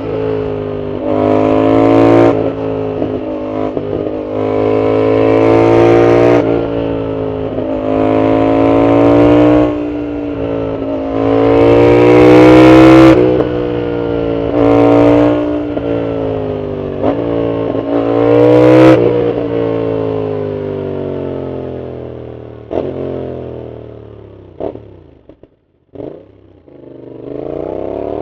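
Yamaha MT-07's parallel-twin engine through a loud aftermarket full exhaust, accelerating hard and shifting up through the gears, each rise in revs cut by a short drop at the shift. About two thirds of the way through the revs fall away for a long slowdown, with a few sharp cracks as it goes quiet, then it picks up again near the end.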